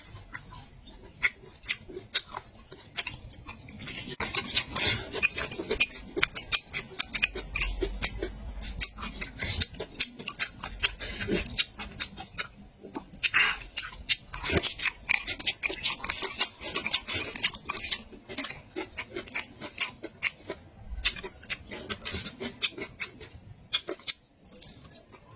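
Close-miked eating sounds: chewing and smacking through mouthfuls of meat, with many short irregular clicks in quick succession.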